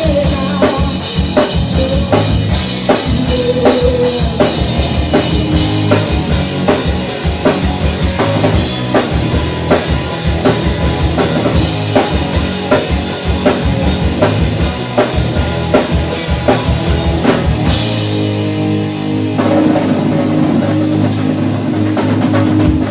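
Live rock band playing: a drum kit hammering out a steady beat under electric guitar. About eighteen seconds in a cymbal crash hits, and the kick drum drops out under held chords.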